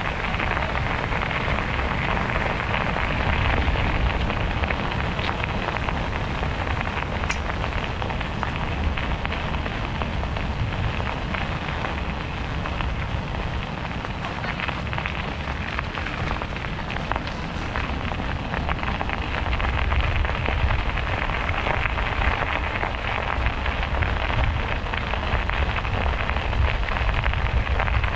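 Riding noise from a moving bicycle: wind buffeting the microphone as a low rumble, over a steady hiss of the tyres rolling on the trail.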